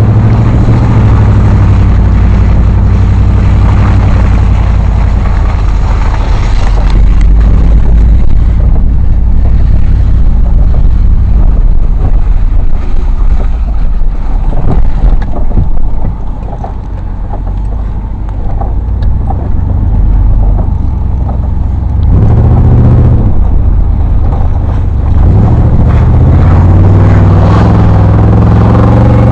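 An off-road vehicle's engine revs hard while driving through mud and floodwater. The engine eases off for a few seconds about halfway, then revs up again near the end.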